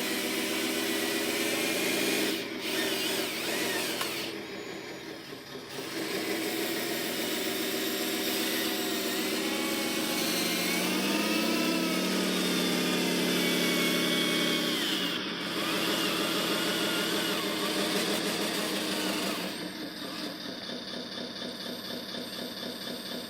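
Small electric motors of a radio-controlled construction model whining, their pitch rising and falling as they speed up and slow down. The whine dips briefly a few seconds in and is quieter near the end.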